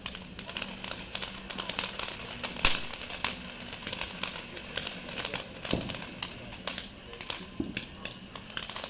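A lit 200-gram consumer firework crackling, a dense run of fast sharp pops, with one louder pop a little under three seconds in.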